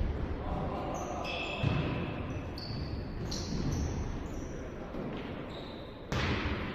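Indoor volleyball play: shoes squeak on the court floor in short high chirps, and the ball is struck, with a sharp hit a little after the start and a louder one near the end.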